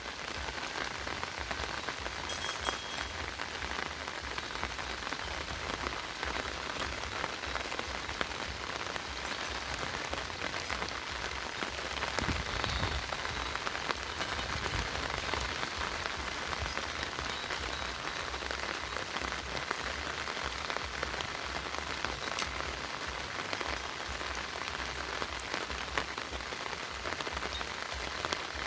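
Steady rain falling on surfaces, with many small drop ticks scattered through it.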